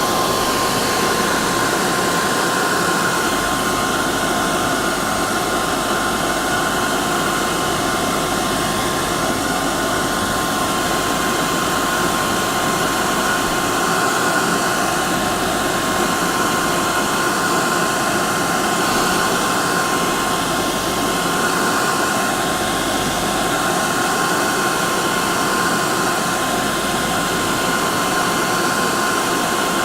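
Hair dryer running steadily: a constant blowing whoosh with a steady whine from the motor and fan.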